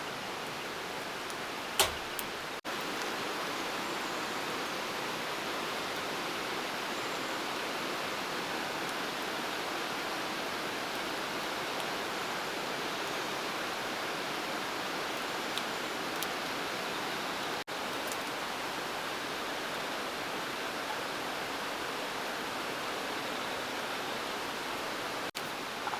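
Steady rushing noise of flowing water, even throughout, with one sharp click about two seconds in.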